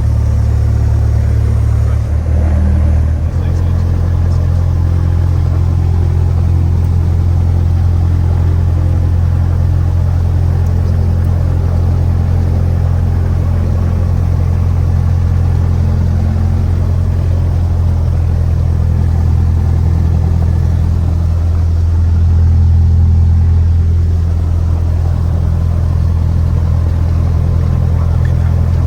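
Cessna 172's piston engine and propeller running at low power, heard inside the cabin: a loud, steady low drone that shifts pitch about three seconds in and swells slightly near three-quarters of the way through.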